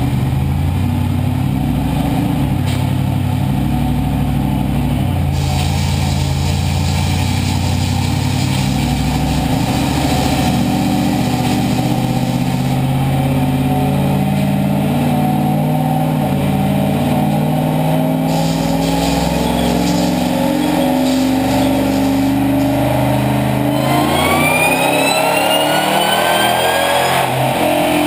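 2002 Ford F-150 SVT Lightning's supercharged 5.4-litre V8 running under load on a Dynojet chassis dyno, holding fairly steady revs for most of the stretch. About four seconds before the end the revs climb quickly, with a rising whine.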